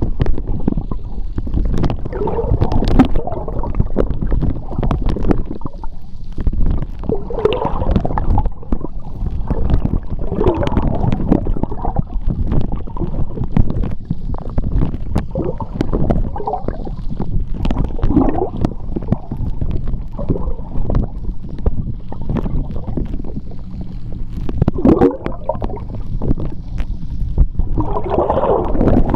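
Seawater heard underwater: a steady low rumble of moving water with frequent gurgling bubbles and small scattered clicks.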